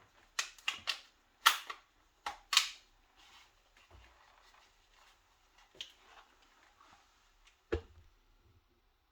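A run of sharp, short mechanical clicks and taps, about seven in the first three seconds, then two more further apart near the end, like gear being handled and loaded between shots.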